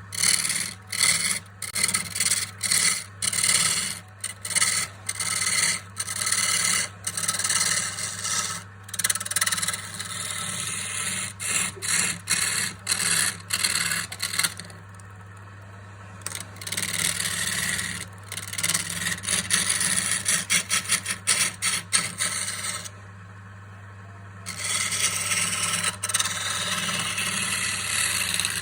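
Wood being worked by hand in repeated scraping strokes, about one to two a second, with a run of quicker strokes and two short pauses. A steady low hum runs underneath.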